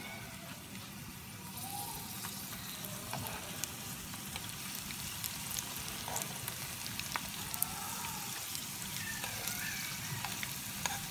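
Keema samosas sizzling steadily as they shallow-fry in hot oil in a pan, with scattered sharp clicks as a metal spatula turns them.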